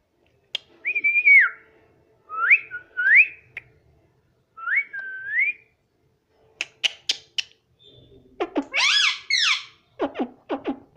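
Pet parrot whistling: a series of short gliding whistles, several sweeping upward, then a few sharp clicks and a louder, rougher call about nine seconds in, followed by more clicks.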